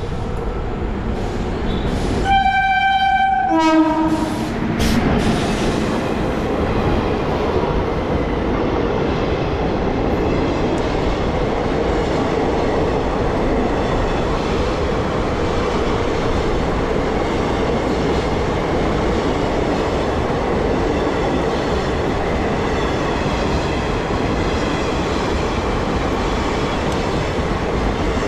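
An Indian Railways express train sounds its horn once, a blast of about a second and a half whose pitch drops at the end as the locomotive passes. The coaches then run by steadily with wheel clatter on the rails.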